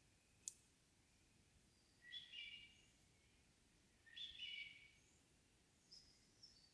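Songbirds singing faintly in a still forest at dusk: a single sharp tick about half a second in, then two similar short song phrases about two seconds apart, and a couple of faint high notes near the end, over a quiet background hiss.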